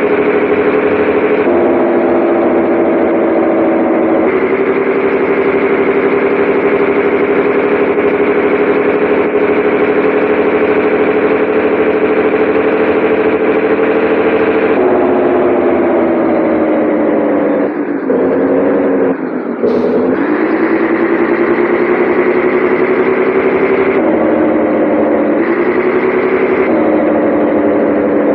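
Scania 113H 360's 11-litre six-cylinder diesel running steadily. Its pitch climbs slowly, then falls and briefly dips about two-thirds of the way through, as at a gear change, before shifting up and down a few more times.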